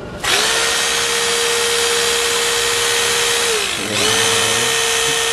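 Battery-powered rescue tool's electric motor switched on: it spins up to a steady whine, runs about three and a half seconds, winds down briefly and then runs again.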